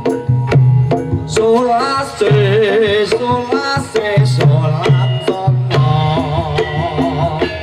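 Javanese gamelan accompaniment for a kuda lumping trance dance: kendang hand drums play a driving, repeated low pattern over steady ringing metallic tones. A wavering melodic line, voice or wind, comes in over them about a second in.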